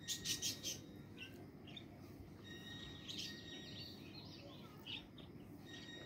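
Faint bird chirps and twittering: a few short chirps at the start and a busier run of twittering around the middle.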